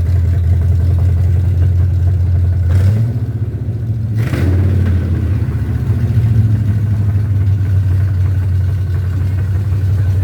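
A car engine idling with a steady low rumble, its pitch shifting briefly about three to four seconds in, with two short sharp noises at that point.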